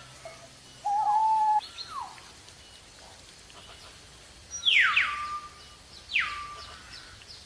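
A bird calling: a held whistle about a second in, then three sharp whistles that sweep steeply downward and level off, the loudest near the middle.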